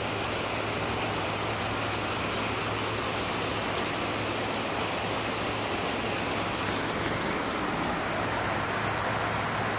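Heavy rain pouring down steadily, an even hiss of a downpour hitting the ground and surfaces.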